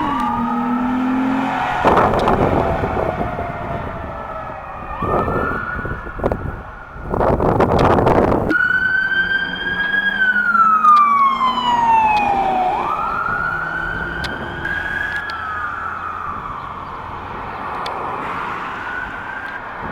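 Several emergency vehicle sirens from a responding fire engine and police cars, wailing with slow overlapping rises and falls in pitch. Short stretches of loud, noisy sound come about two, five and seven seconds in.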